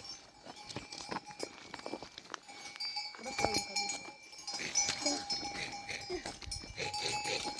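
Bells on herded livestock ringing and clinking among scattered knocks and clatter, with animal calls in the second half.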